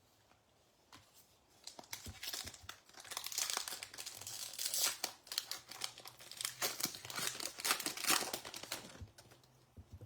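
Foil wrapper of a trading-card pack being torn open and crinkled, a dense crackling rustle from about two seconds in until shortly before the end.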